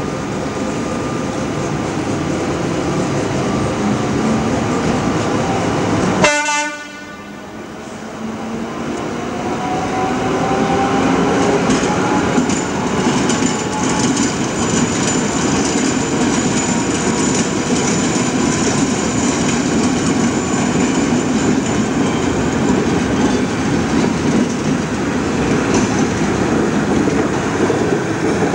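Electric freight locomotive hauling wagons past at low speed, with a steady rumble and the clatter of wheels on the street track. The sound briefly cuts out about six seconds in, followed by a rising whine.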